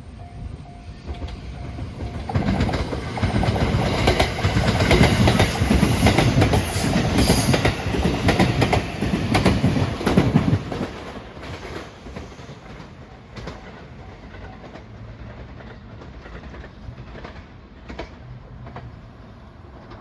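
A train passing close by at a level crossing, its wheels clattering over the rail joints. It is loud from about two seconds in until about ten seconds in, then fades. A level-crossing bell rings faintly at the start.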